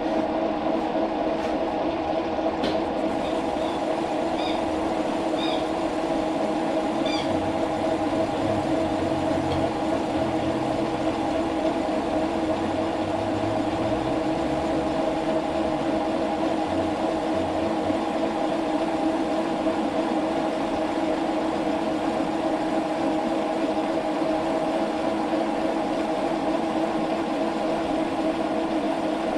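A shop machine running with a steady hum that holds one pitch throughout, with a few faint light clicks a few seconds in.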